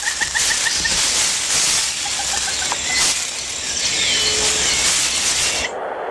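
Rainforest canopy ambience: a steady, dense hiss with birds calling. One bird repeats a quick note several times a second through about the first second, and a short falling whistle comes about four seconds in. The sound cuts off abruptly near the end.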